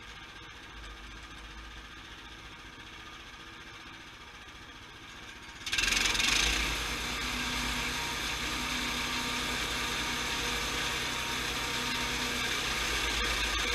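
Sawmill engine running low, then about halfway through it suddenly gets much louder and keeps running steadily at the higher level.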